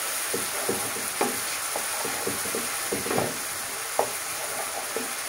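Onion and ginger-garlic paste sizzling in hot oil in a pan, with irregular scrapes and knocks of a utensil stirring them.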